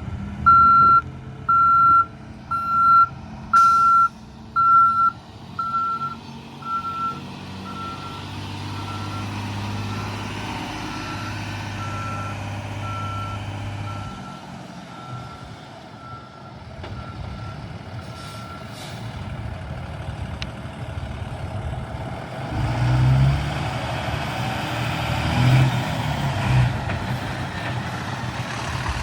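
A truck's reversing alarm beeps about once a second, loud at first and growing fainter until it fades out partway through. Under it the fuel truck's engine runs, getting louder near the end.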